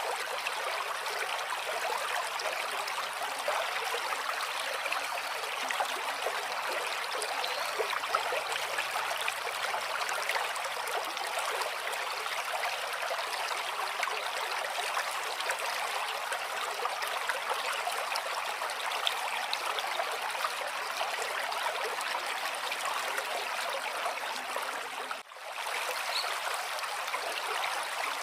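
Flowing stream water, a steady bright rushing and trickling with little deep rumble. It drops out for a split second near the end.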